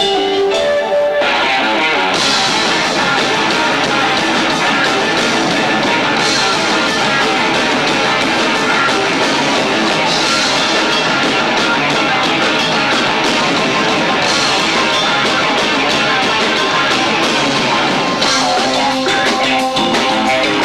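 Live rock band with guitar and two drum kits playing loud and distorted through a camcorder microphone. A lighter passage opens the stretch, then the full band comes crashing in about a second later, with heavy cymbals.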